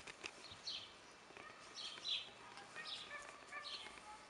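Small birds chirping: short high chirps repeated every second or so, faint against a quiet outdoor background.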